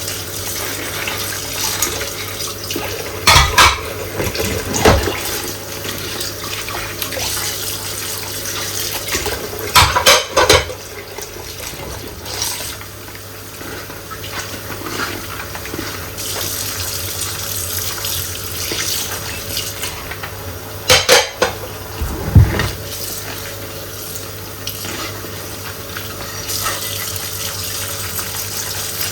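Tap water running steadily into a kitchen sink while dishes are washed by hand, with dishes knocking and clinking against each other a few times.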